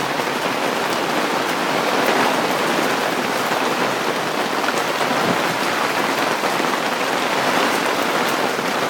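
Hail and rain falling hard together, a steady dense patter with faint ticks of hailstones striking.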